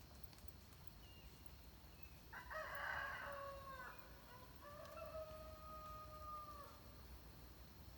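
A rooster crowing faintly: a rough, loud opening phrase about two seconds in, trailing into a long held note that stops near the end.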